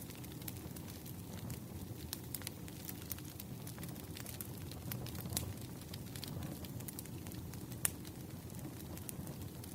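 Campfire burning: wood crackling with scattered sharp pops over a low, steady rumble. The loudest pop comes near the end.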